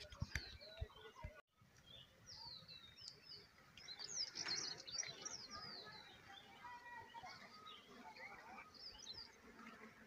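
Small birds chirping in the trees: many short, quick calls, busiest from about two to six seconds in. A few faint knocks come near the start, and the sound drops out briefly about one and a half seconds in.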